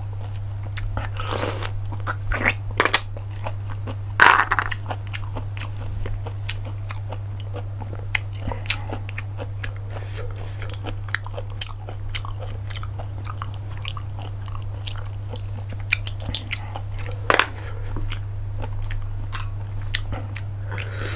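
Close-miked eating of cockles: chewing and mouth sounds with many small clicks, and a few louder crunches, one about a second and a half in, one about four seconds in and one near the end. A steady low hum runs underneath.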